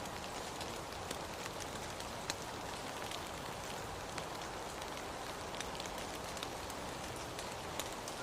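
Steady rain falling, with individual drops landing close by as scattered sharp ticks.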